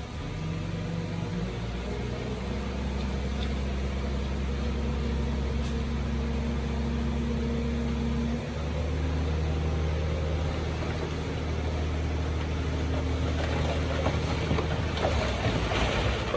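Heavy diesel engine of earthmoving machinery running steadily, its note shifting about halfway through. Near the end a louder, rougher clattering noise builds over it.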